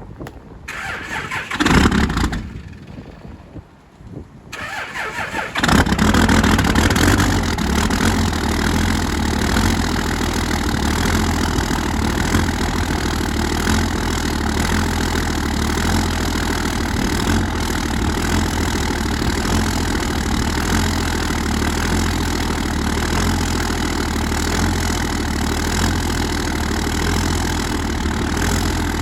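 Vehicle engine cold-started: it cranks for a few seconds, catches about six seconds in, then runs at a steady idle.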